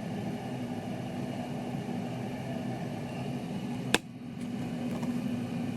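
Steady low background hum with a faint steady tone, broken by a single sharp click about four seconds in, after which the hum is briefly quieter.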